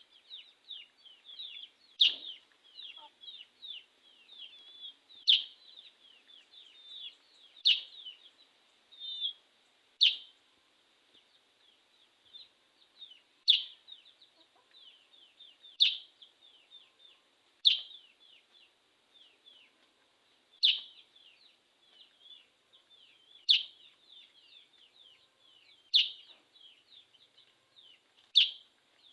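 Sooty-headed bulbul (kutilang) singing busily: a loud sharp note about every two to three seconds, with quick chattering notes in between.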